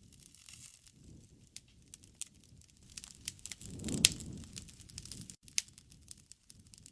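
Wood fire crackling and popping, with irregular sharp snaps over a low fluttering rumble of flames that swells for a moment about four seconds in, where the loudest pop comes.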